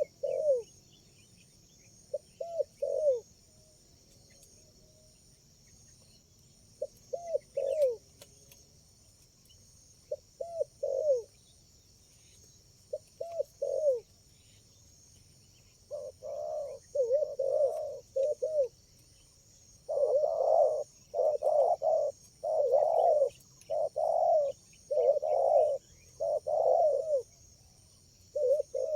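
Spotted doves cooing in short repeated phrases of two or three notes, sparse at first, then coming faster and louder in the second half. A steady high-pitched drone runs underneath.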